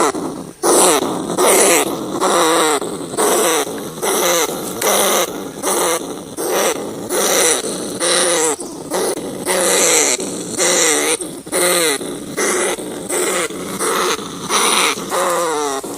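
Rat crying in a rapid run of short calls with a wavering pitch, more than one a second.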